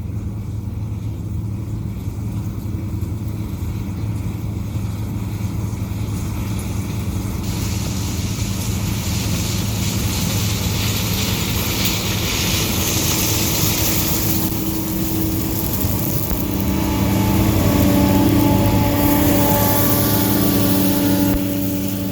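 Massey Ferguson 9895 combine harvester running with a steady engine drone. About a third of the way in, a loud hiss and higher whining tones join it, and the sound grows louder toward the end.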